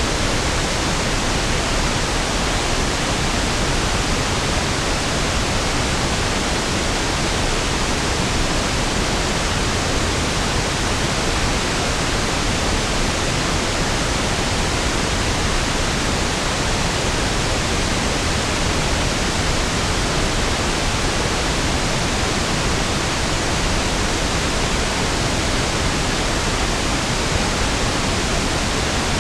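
Steady pink noise (1/f noise): an even, unchanging hiss with equal energy per octave, softer in the highs than white noise.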